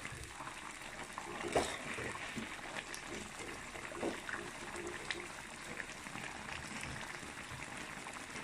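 Thick chicken curry gravy simmering and sizzling on a tawa as a steady hiss, with a few short knocks, the loudest about a second and a half in.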